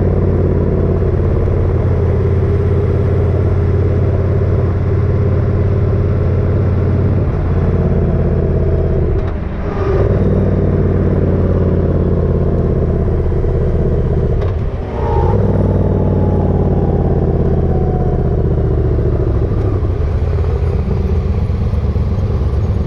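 Motorcycle engine running while riding, a steady drone with road noise. The level dips briefly twice, about nine and fifteen seconds in, and the engine then picks back up.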